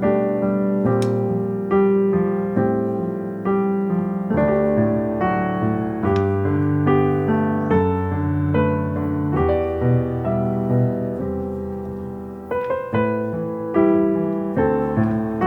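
Soft background piano music, a calm melody of single notes over held chords.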